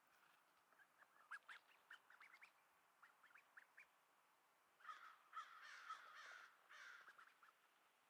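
Duckling calling: a string of short, high peeps, then from about five seconds in a harsher, raspy run of calls lasting about two seconds, a young duck's quack not yet fully formed.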